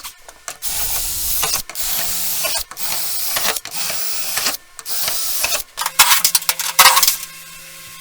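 A power tool run in repeated short bursts of about a second each, with a hissing whir and a low motor hum, then a few sharp clacks near the end.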